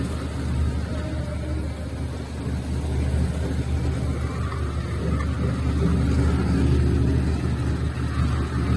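Heavy-duty electric meat grinder running steadily with a low motor hum as it grinds dry dates.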